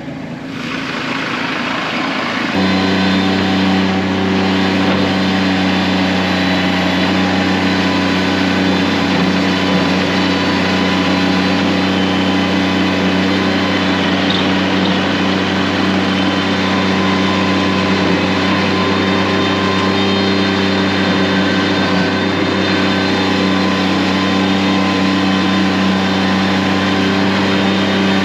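An engine running at a steady speed. It builds over the first couple of seconds, then settles into a constant hum that does not change pitch.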